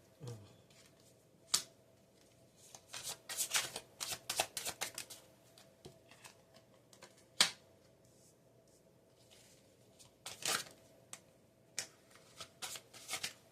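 Tarot cards being shuffled and handled in bursts of rustling, with sharp card snaps about one and a half seconds in and again about seven seconds in, and another burst of shuffling around ten seconds.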